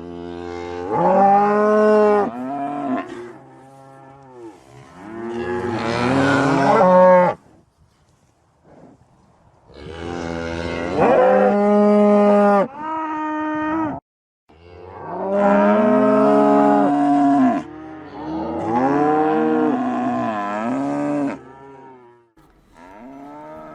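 Domestic cows mooing: a series of long, drawn-out moos, one after another, with a short pause about eight seconds in.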